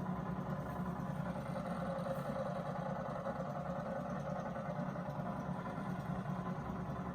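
Gorenje WA482 washing machine running a 95°C boil wash: a steady mechanical hum and whirr with no change in level.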